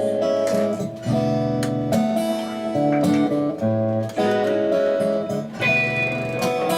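Acoustic guitar strumming a chord progression as a song's instrumental opening, the chords changing about once a second.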